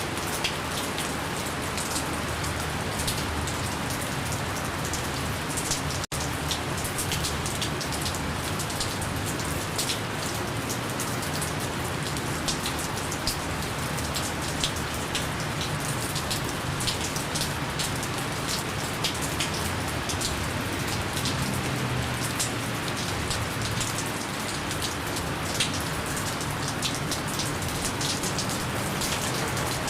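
Gentle, steady rain: an even hiss of rainfall with many individual drops ticking through it. A split-second dropout breaks it about six seconds in.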